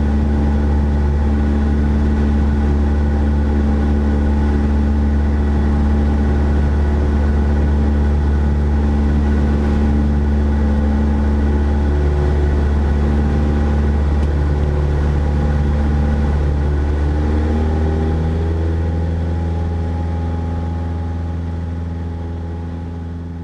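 Cessna 172SP's four-cylinder Lycoming engine and propeller droning steadily, heard from the cockpit. The engine note shifts slightly in pitch twice as the power changes, then fades away near the end.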